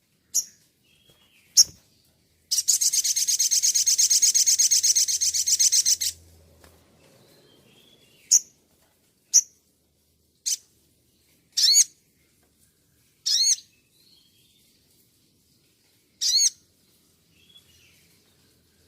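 Songbird calling: a rapid, dense trill lasting about three and a half seconds, then a series of short, sharp, high calls spaced one to three seconds apart.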